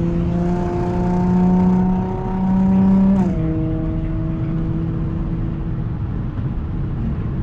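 Audi S4's supercharged V6 with an AWE Touring exhaust, heard from inside the cabin while driving. The engine note rises slowly for about three seconds, drops abruptly, then holds steady over road noise.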